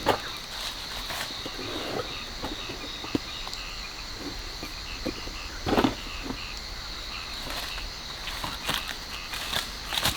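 A steady chorus of small calling creatures, frogs or insects, with a high continuous trill and a row of short repeated chirps. Scattered light clicks run through it, and a louder rustle comes about six seconds in.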